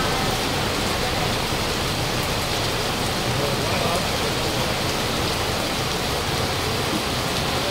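Heavy downpour pouring steadily onto a wet paved lane.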